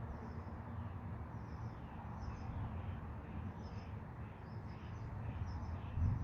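Steady rain hiss over a low rumble, with a bird chirping repeatedly high above it. A short low thump comes near the end.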